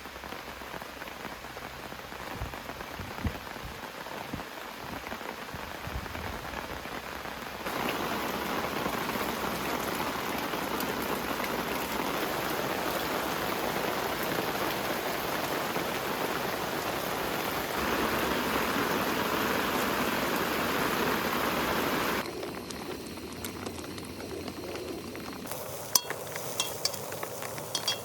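Steady rain falling, in a few cut-together shots, louder from about eight seconds in. Near the end it gives way to a quieter scene with a few sharp clicks.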